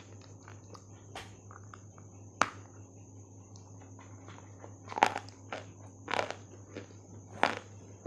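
Dry white clay being bitten and crunched: a series of sharp, crisp crunches, the loudest about two and a half, five, six and seven and a half seconds in, over a steady faint high-pitched whine.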